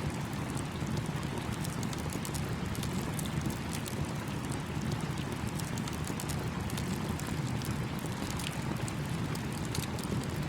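Campfire crackling with frequent small sharp pops over the steady rush of a flowing stream.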